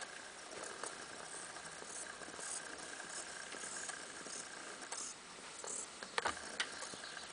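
Faint bird chirps outside, short high calls coming every half second or so, with two sharp taps about six seconds in.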